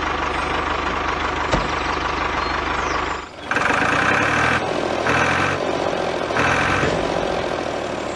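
Tractor engine sound effect running steadily with a low, even chug. About three seconds in it breaks off briefly, then comes back in a higher, different tone that swells and fades three times.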